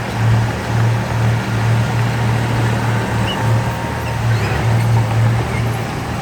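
Heavy diesel engine of earthmoving machinery running steadily with a low, even drone that swells and dips slightly.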